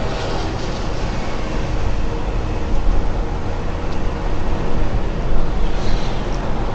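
Steady driving noise of a moving car as picked up by a dashcam: road and wind noise with a strong low rumble.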